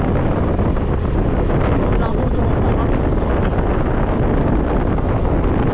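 Steady wind noise rushing across the microphone of a moving scooter, with the scooter's engine running underneath.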